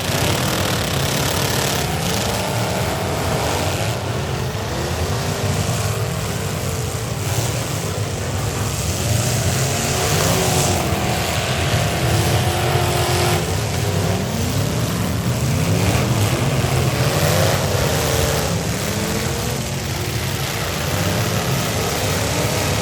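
Several V8 demolition derby car engines running at once, revving up and down in overlapping rises and falls over a steady low rumble.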